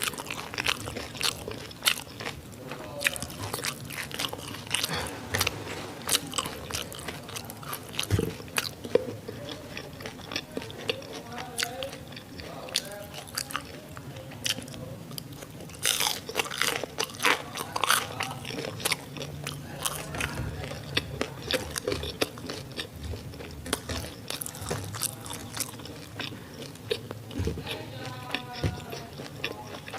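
Close-miked biting and chewing of crispy fried sausages and onions: a steady run of sharp crunches with wet chewing between them, and a denser flurry of crunches about halfway through.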